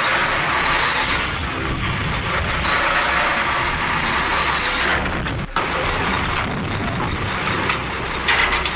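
Steady, noisy running sound of a moving vehicle, broken by a brief dropout about five and a half seconds in.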